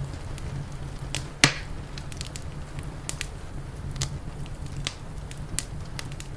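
Wood fire crackling, with irregular sharp pops and one loud pop about a second and a half in, over a steady low rumble.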